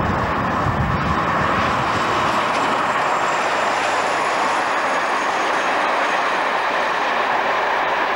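Diesel locomotive-hauled passenger train passing close by. The locomotive's deep engine rumble drops away after about two seconds, leaving the steady rolling noise of the coaches' wheels on the rails.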